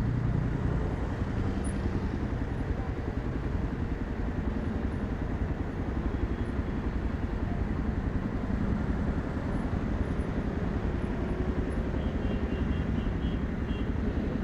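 Yezdi Adventure motorcycle's single-cylinder engine idling steadily, held in stopped traffic.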